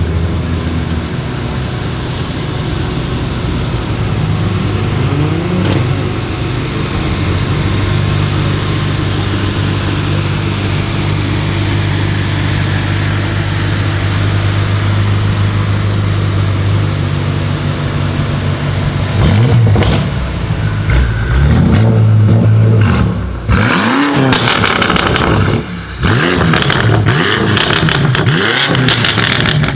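Decatted BMW M5 F90's twin-turbo V8 with an Akrapovic exhaust idling steadily, then revved repeatedly from about two-thirds in. There are several quick rev blips that rise and fall, with crackles between them near the end.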